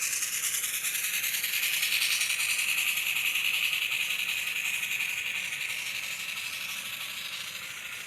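Model train running on the layout track, pulling passenger cars: a steady high whine with fast, even clicking of the wheels, loudest about two seconds in and then fading as it moves away.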